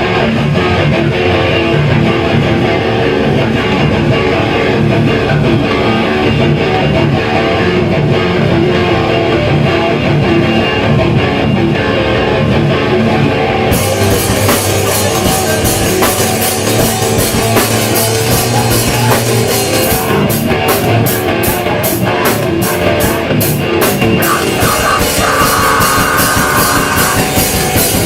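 Live hardcore band playing loud distorted electric guitar. The drum kit and cymbals come in about halfway through, with a run of rapid, evenly spaced hits a little later.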